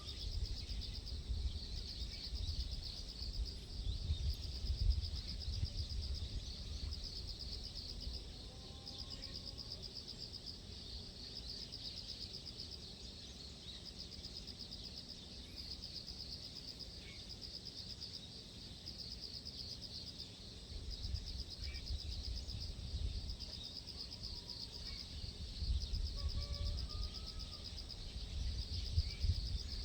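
Insects trilling in a steady, fast-pulsing high chorus, with a few faint bird chirps. Under them is a gusty low rumble, heaviest in the first few seconds and again near the end.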